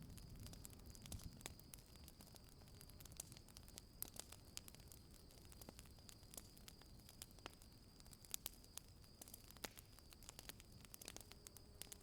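Faint campfire crackling: scattered sharp pops and snaps over a soft hiss, with a steady high-pitched tone underneath.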